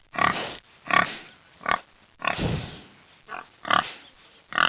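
Pigs grunting and oinking in a string of short calls, with one longer, lower grunt about halfway.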